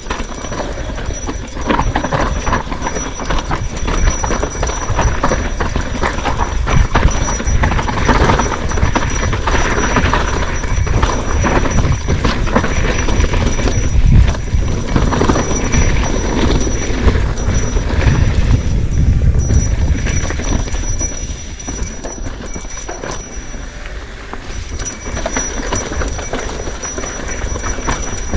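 Continuous irregular rattling and clatter of a bike being ridden over a rough trail, over a heavy low rumble; it eases off for a few seconds in the last third, then picks up again.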